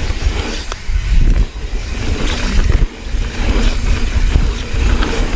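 A mountain bike being ridden fast over a dirt trail: wind rumbling on the microphone, tyre noise, and sharp knocks and rattles from the bike. There is a short lull about three seconds in.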